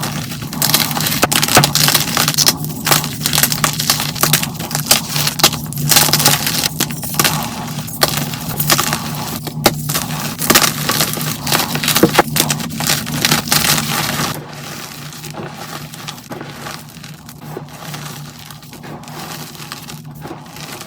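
Blocks of dyed gym chalk being crushed, crunching and crumbling in dense, rapid crackles. About 14 seconds in, the crunching drops to a quieter, softer crumbling.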